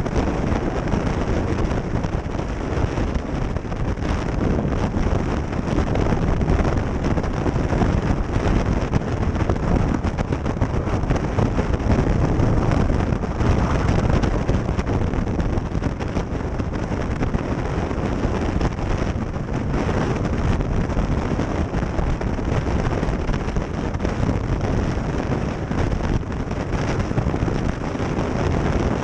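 Steady wind rushing over the microphone of a moving motorcycle, a Kawasaki Ninja H2 SX SE, with engine and road noise under it.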